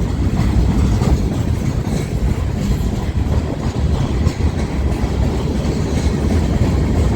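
Freight train of empty center beam cars rolling past, with a steady low rumble of wheels on rail.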